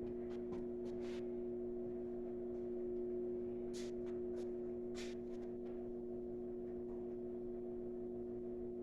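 A steady electrical hum at one even pitch, unchanging throughout, with a few faint ticks about four and five seconds in.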